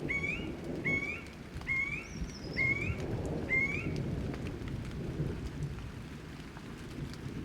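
Rain falling under a continuous low rumble of thunder. A bird calls a short rising chirp five times, evenly spaced, over the first four seconds.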